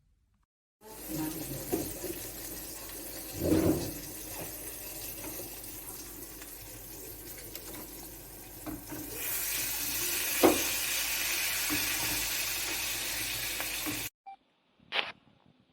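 De'Longhi Vintage Icona pump espresso machine running with a steady watery hiss and gurgle. The hiss turns louder and brighter about nine seconds in, then cuts off suddenly shortly before the end, with a few light knocks along the way.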